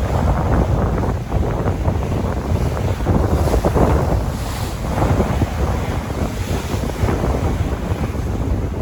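Sea waves washing and surging, with strong wind buffeting the microphone as a constant low rumble underneath.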